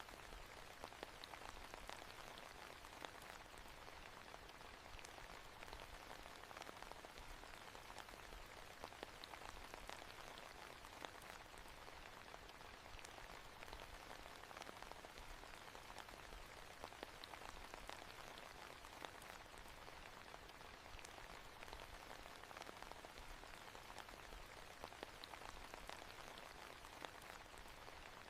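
Faint, steady rain falling, with many small drop ticks scattered through it.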